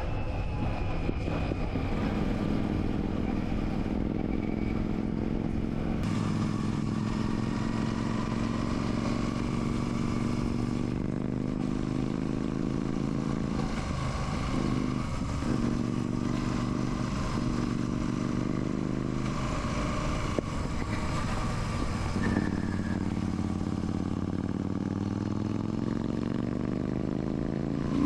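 Royal Enfield Classic 650's parallel-twin engine running on the move. Its pitch dips and breaks briefly about halfway through, then climbs steadily near the end as it accelerates.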